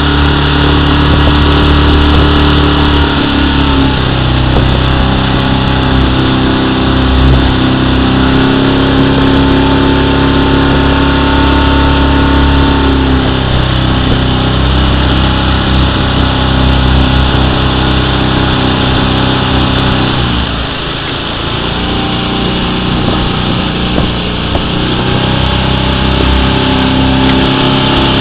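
Outboard motor of a coach's motorboat running steadily close to the microphone, its pitch stepping down a couple of times as the throttle is eased, dropping lower about two-thirds of the way through and picking up again near the end.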